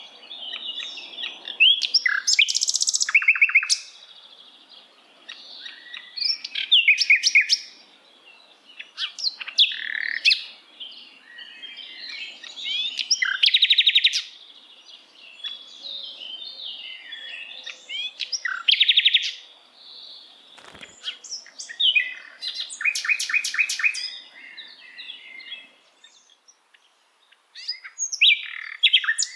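Sikatan londo, a flycatcher kept as a songbird, singing a varied song. Phrases of quick repeated notes, short whistles and rapid buzzy trills come in bursts a second or two long, with brief pauses between them.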